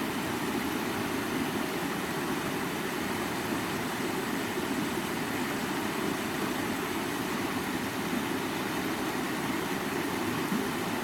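Stream water running steadily over rocks, a continuous even rushing.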